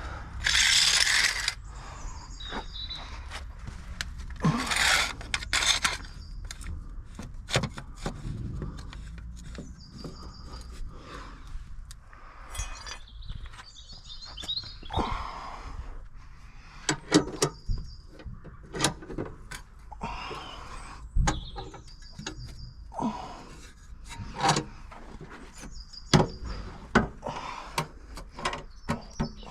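Scattered clicks, knocks and clatter of tools and parts being handled, with a loud hissing burst right at the start and another about five seconds in. Birds chirp at intervals.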